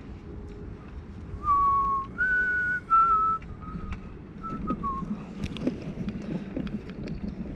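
A person whistling a short tune of a few held notes, the loudest in the first half; after that, low bumps and knocks.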